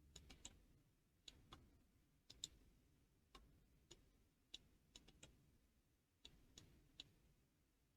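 Faint, irregular computer mouse clicks over near silence.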